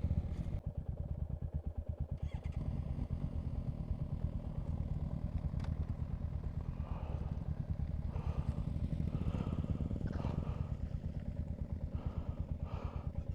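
Motorcycle engine idling at a standstill with a steady, even pulse.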